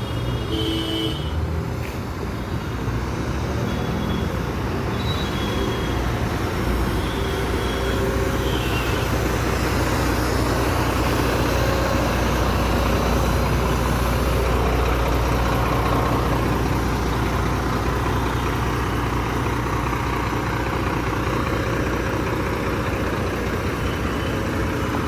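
Volvo B11R multi-axle bus's 11-litre six-cylinder diesel running, its low drone swelling from about eight seconds in and then holding steady. A few short horn toots sound in the first several seconds amid traffic noise.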